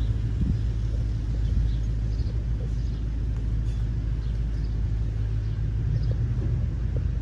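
A steady low engine rumble runs without change, with faint high chirps scattered over it.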